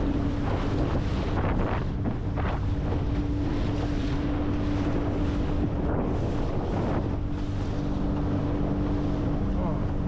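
Boat motor running at a steady pitch under way, with heavy wind buffeting the microphone and water rushing along the hull.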